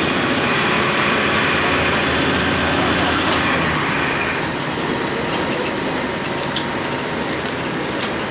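2002 Blue Bird CS transit bus heard from inside, its Cummins ISC diesel and road noise running steadily. The noise eases a little about halfway through, with a few sharp rattles.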